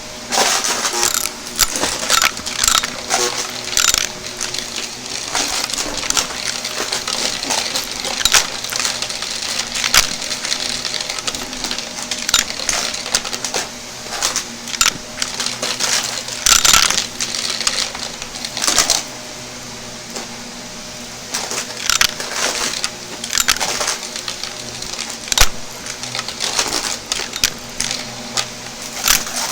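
Shark vacuum cleaner running steadily while it sucks up crunchy debris, which crackles and rattles in irregular clusters of sharp clicks. The clicks thin out for a couple of seconds about two-thirds of the way in.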